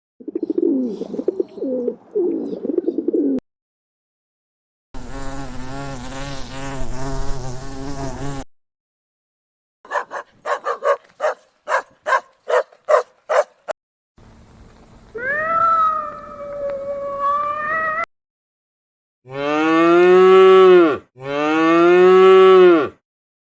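A string of separate farm-animal calls, one after another with short silences between them. It starts with a rough low call, then a wavering call, then a quick run of short sharp calls at about three a second, then a rising call that levels off. It ends with two long, loud calls, one right after the other.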